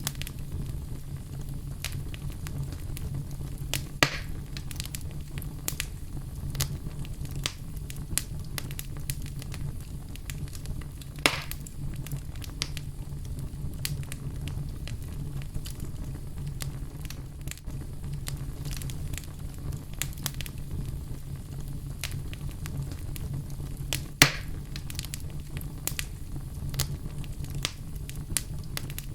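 Wood fire crackling in a fireplace: a steady low rumble of flame with many small irregular crackles and three louder pops, about 4, 11 and 24 seconds in.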